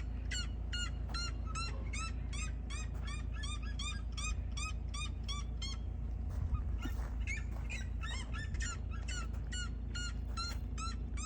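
A group of birds calling over and over, short upward-bending calls coming several times a second and overlapping, over a steady low rumble.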